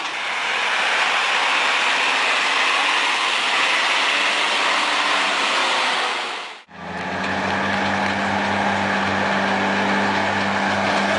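Truck engine noise: a steady, even rush for about six and a half seconds, then after a sudden cut a truck engine running with a steady low hum.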